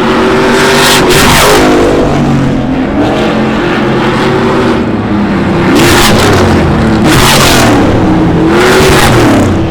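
Off-road race trucks passing at speed, their engines revving up and down through gear changes, with loud rushes as trucks go by about a second in, around six and seven seconds, and near the end.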